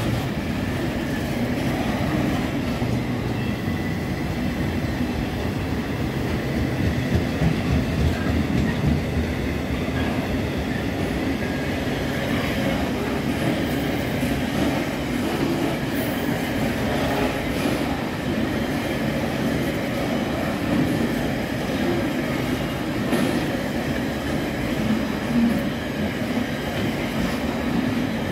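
Loaded container flat wagons of a slow freight train rolling past, a steady rumble of steel wheels on the rails with a faint thin high tone over it.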